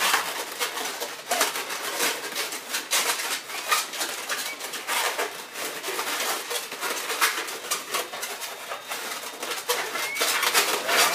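Latex modelling balloons squeaking and rubbing against each other as they are twisted and worked into shape, a rapid run of short squeaks.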